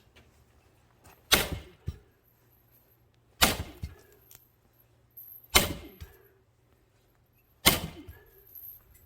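Axe blows splitting a twisted, knotty firewood log: four heavy strikes about two seconds apart, each with a brief cracking tail.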